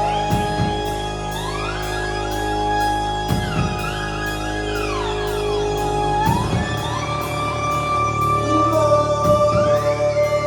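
A live rock band playing a slow, spacey instrumental passage: held keyboard chords with pitch sweeps gliding up and down, a steady ticking pulse about twice a second, and deep notes that change every three seconds or so.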